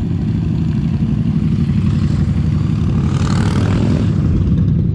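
Motorcycle engine running steadily while riding, a continuous low drone, with a brief rushing noise about three seconds in.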